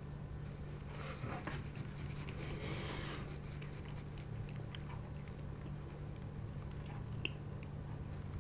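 Close-miked chewing: small wet mouth clicks of someone eating, with a couple of louder rustling bursts about one and three seconds in, over a steady low hum.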